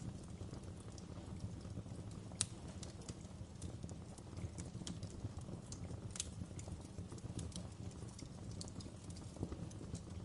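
Wood fire in a fireplace crackling: irregular sharp pops and snaps over a steady low rumble of the burning, with the loudest pop about two and a half seconds in.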